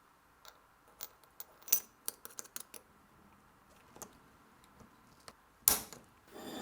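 Small hard parts clicking and tapping as they are handled, in an irregular run of light clicks, with one sharp, louder knock near the end.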